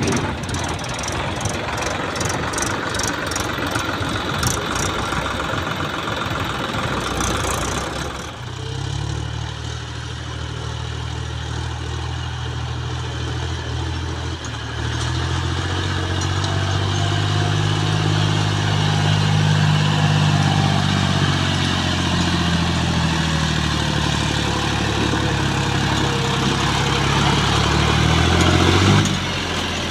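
Tractor diesel engine running. It is rough and noisy with rapid clicking for the first several seconds, then settles into a clear, steady engine note that gets louder partway through, wavers slightly in pitch, and drops away near the end.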